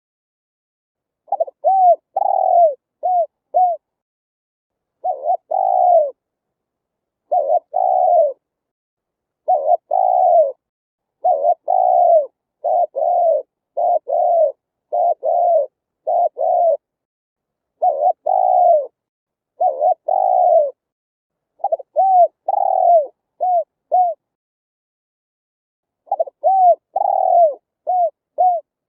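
Spotted dove cooing: repeated phrases of short, low coos in quick groups with brief pauses between phrases. This is the full territorial song that is played to lure wild doves.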